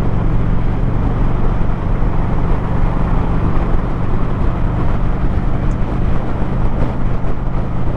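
Motorcycle engine running at a steady cruising speed, a constant low hum, with wind and road rush over the microphone while riding.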